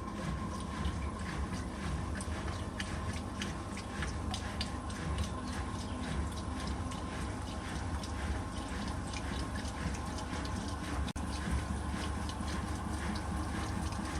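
Simpson 8.5 kg washing machine running on its delicates cycle: a steady low hum with many irregular clicks and ticks on top. The sound cuts out for an instant about three quarters of the way through.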